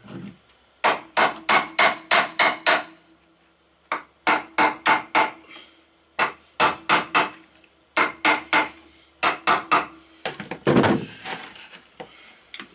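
Hammer blows on a metal part of a Kawasaki KLR 650's engine, struck in runs of several quick blows at about four a second with a faint metallic ring, to knock the part loose. A longer scraping rattle comes near the end.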